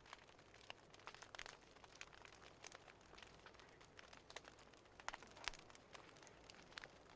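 Faint crackling of a wood fire: irregular small pops and snaps over a soft hiss, one a little louder about five and a half seconds in.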